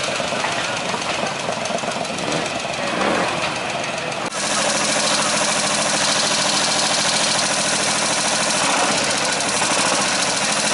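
A vintage cyclecar's engine running as it drives slowly by; about four seconds in, after a cut, the exposed air-cooled engine of a Morgan Aero three-wheeler idling steadily close up.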